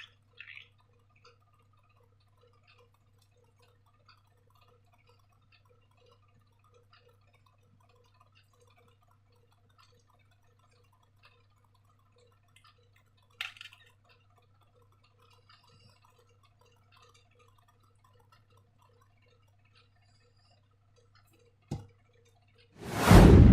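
Faint, scattered sticky crackles and small clicks of slime being handled, over a steady low hum. There are two sharper clicks, then a loud burst near the end.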